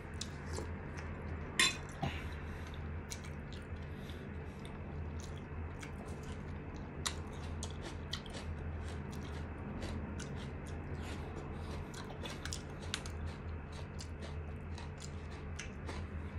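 A person chewing chicken close to the microphone, with frequent small sharp mouth clicks and a louder click about a second and a half in.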